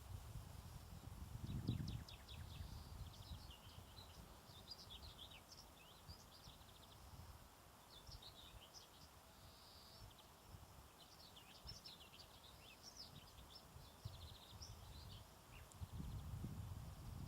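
Small birds singing, a busy run of quick, high chirps and short trills, heard faintly over an uneven low rumble that swells briefly near the start.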